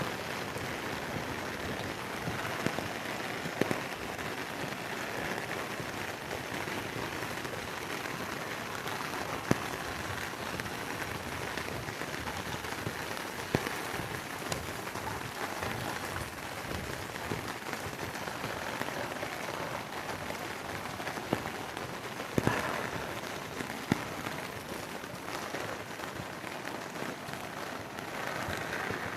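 Steady rain falling, with a few sharper single drop impacts standing out now and then.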